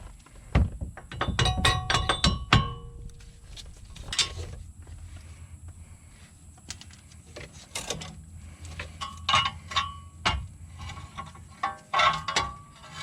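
Metal tools and car parts clanking and clicking during front brake work, in irregular clusters of knocks with short metallic rings, busiest in the first few seconds and again near the end.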